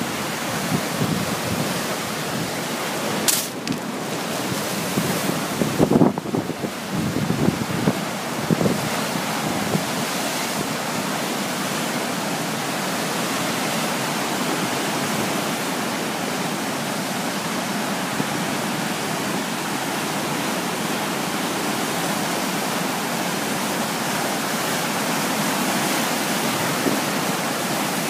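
Strong wind blowing, buffeting the microphone in gusts for the first several seconds, then settling into a steady, even rush.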